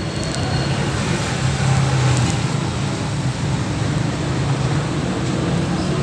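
4400 cc V8 engine of a 1984 Toyota Hilux running steadily with a low hum.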